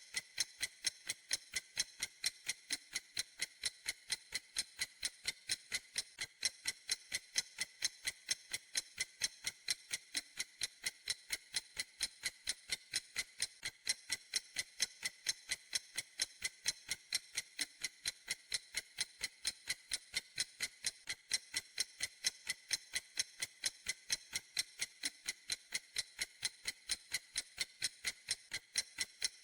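Clock ticking in a steady, even rhythm, several crisp, high-pitched ticks a second.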